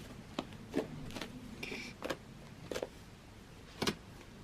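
Fluffy slime being poked and squeezed by hand, giving scattered sharp little pops and clicks from air pockets in the slime.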